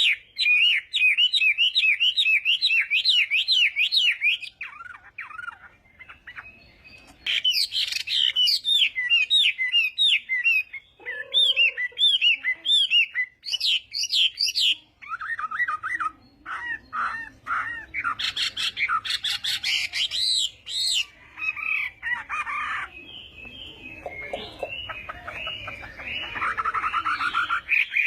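Chinese hwamei (hoạ mi) singing a long, varied song of rapid repeated whistled phrases, breaking off for a couple of seconds about five seconds in and then resuming.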